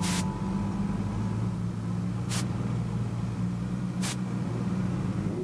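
A car engine idling steadily, with three short bursts of noise spread over the few seconds.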